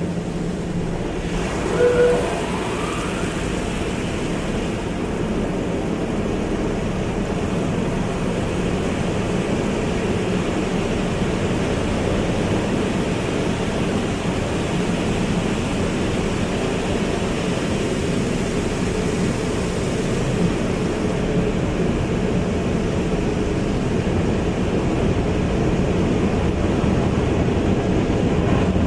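Automatic car wash running: a steady rush of water spray and machinery under a low hum, with a brief higher tone about two seconds in.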